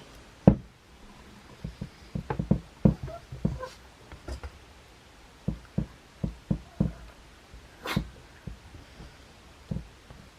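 Irregular soft knocks and taps of a spoon against plastic cups and a bowl as strawberries are spooned into dessert cups.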